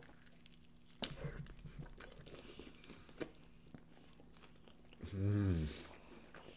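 Close-miked chewing and biting into soft filled wraps, with a few sharp crunches and mouth clicks, and a brief low hum of a voice about five seconds in.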